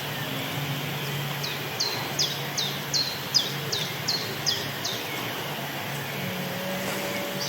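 A bird repeating a short, high chirp that drops in pitch, about nine times at roughly three a second, over steady background noise with a low hum.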